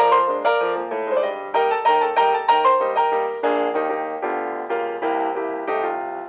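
Background piano music: a light melody of struck notes, each ringing and fading, several notes a second.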